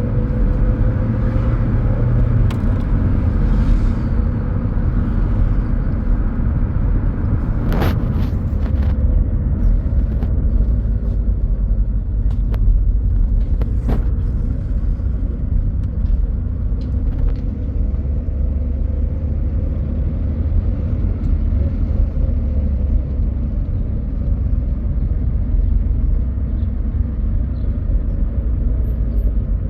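A motor vehicle running with a steady low rumble, its pitch drifting slightly, with a couple of short knocks or rattles about 8 and 14 seconds in.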